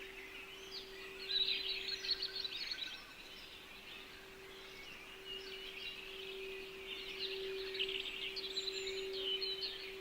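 Small songbirds chirping and twittering in quick high bursts, once about a second in and again from about five seconds in, over a steady low pure tone, the throat-centre frequency, held throughout.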